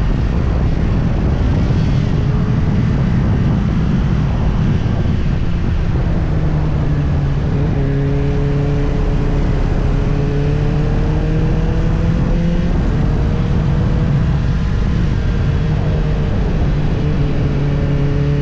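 Motorcycle engine running at road speed under heavy wind noise on the microphone. The engine note drifts slowly up and down as the bike's speed changes.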